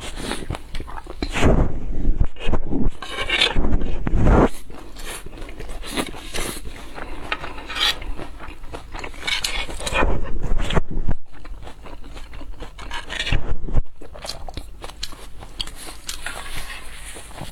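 Close-miked eating sounds: irregular bursts of crunching and chewing with rough scraping noises.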